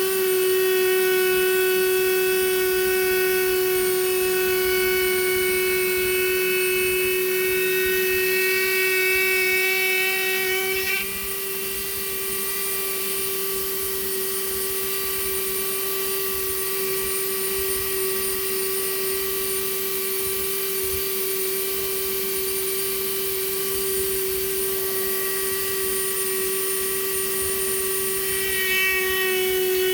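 A small high-speed electric power tool motor running steadily with a constant high whine. About eleven seconds in, its sound turns thinner and a little quieter, and the fuller whine comes back near the end.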